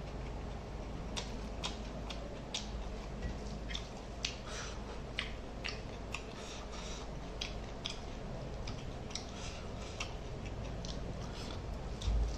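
Close-up eating sounds: chewing with a string of irregular wet mouth clicks and smacks as rice and fish curry are eaten by hand. A dull thump comes near the end.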